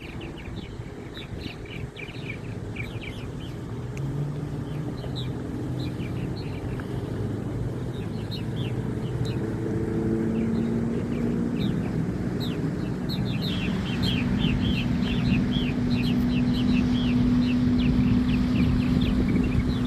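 Birds chirping in many short, quick falling notes, the chirping growing denser over the second half. Underneath runs a low rumble with a humming tone that shifts in pitch now and then, slowly getting louder.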